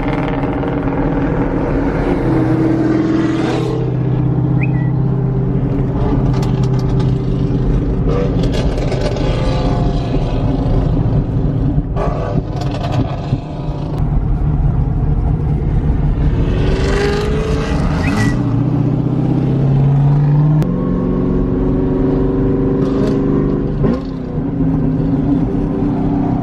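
Muscle car's engine and exhaust running under way, its pitch climbing with throttle and dropping back at gear changes several times, with a sharper rev about two-thirds of the way through.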